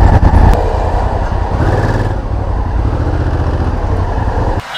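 Motorcycle on the move: engine and heavy wind rumble on the camera microphone, cutting off suddenly near the end.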